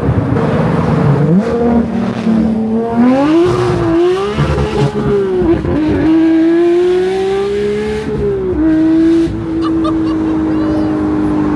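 Porsche 992 GT3's naturally aspirated flat-six engine accelerating hard. Its pitch climbs and falls back sharply a few times as it shifts up through the gears, then holds nearly steady near the end.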